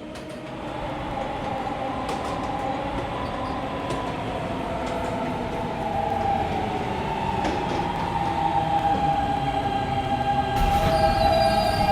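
Subway train pulling into a station, its wheels squealing steadily and growing louder as it comes in. About ten and a half seconds in, a higher, many-toned squeal joins.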